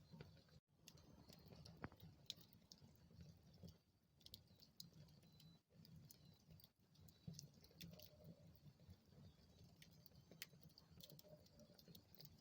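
Wood fire burning in a fireplace, crackling faintly: scattered sharp pops and snaps over a low steady rumble, dropping out briefly twice.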